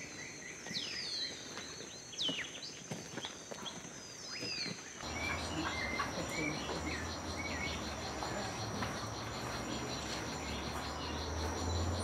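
Giant cowbirds giving sharp, downward-sweeping whistled calls and clicks over a steady high insect drone. About five seconds in the sound changes to melodious blackbirds' short, repeated whistled notes over a low steady rumble.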